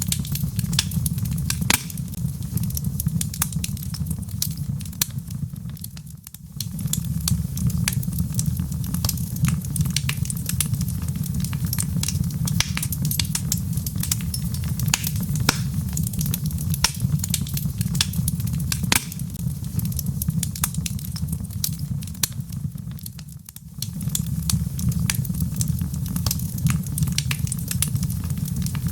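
Burning logs in a fireplace crackling, with frequent sharp pops and snaps over a steady low rumble. The whole sound dips briefly and swells back twice, about six seconds in and again near 23 seconds.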